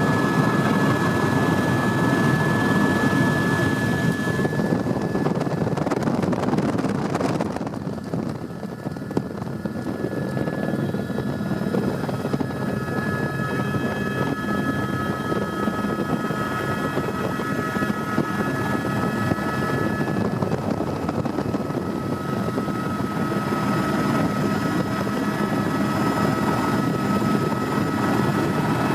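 Tour helicopter running steadily in flight: its engine and rotor noise, with a steady whine over it. The sound drops for a moment about a quarter of the way in, then carries on.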